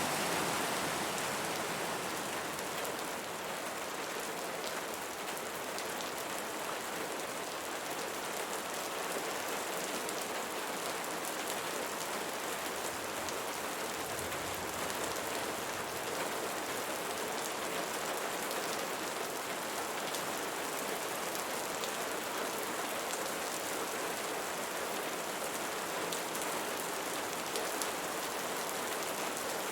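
Steady rain falling and pattering on a surface, an even hiss with fine drop detail.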